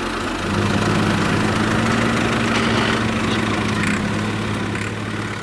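A vehicle engine running steadily at an even low pitch, growing louder about half a second in and fading near the end.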